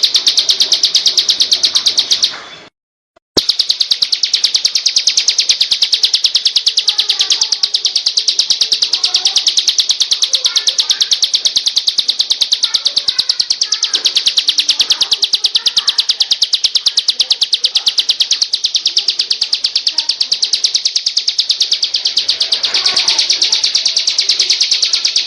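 A songbird's rapid, high-pitched trill of evenly repeated chirps, many per second. It breaks off for under a second about two and a half seconds in, then runs on and cuts off abruptly at the end.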